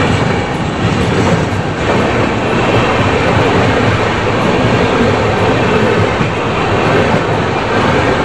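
Loud, steady rushing and rumbling of two passenger trains running side by side at speed, their wheels running on the rails, heard from the open side of a moving coach.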